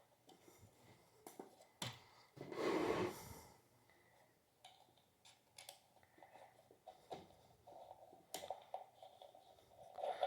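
Faint handling noises from ceiling fan parts being fitted: scattered light clicks and knocks, with one louder rubbing scrape about two and a half seconds in that lasts about a second.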